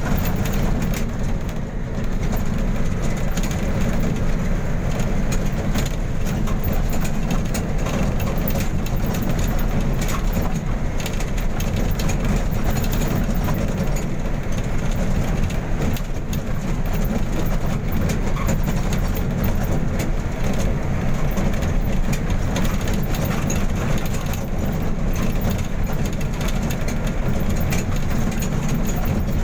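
Steady low rumble of a moving vehicle, unchanging throughout, with a fainter hiss above it.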